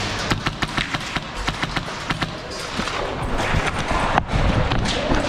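A run of sharp, irregular clicks and knocks, clustered near the start and again in the last couple of seconds.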